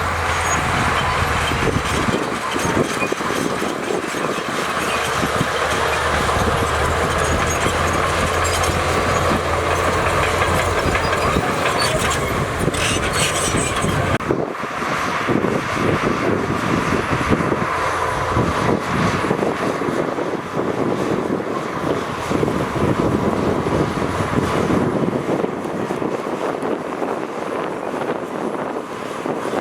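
Crawler bulldozer working: its diesel engine runs steadily under load over a continuous clatter of metal tracks, with a brief break about halfway through.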